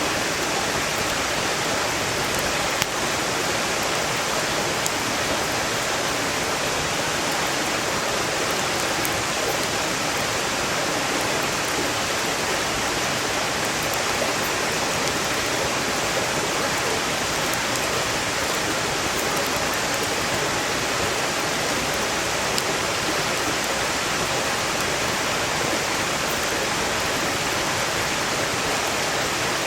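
Valley stream rushing steadily, with a few faint pops and crackles of burning firewood, the clearest about three seconds in.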